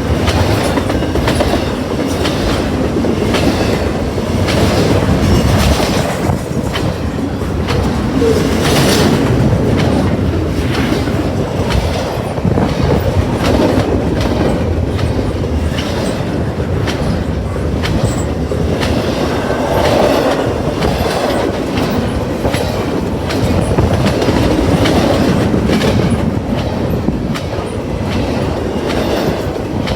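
A train rolling past close by: a steady rumble of railcars with a regular clickety-clack of wheels over rail joints, about one to two clicks a second.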